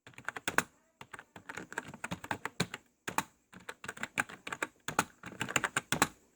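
Rapid, irregular clicking and tapping like typing on a computer keyboard, several keystrokes a second with brief pauses, starting suddenly out of silence.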